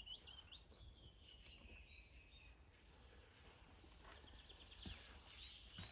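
Faint birdsong: quick, high chirps and twitters, thinning out in the middle and picking up again near the end.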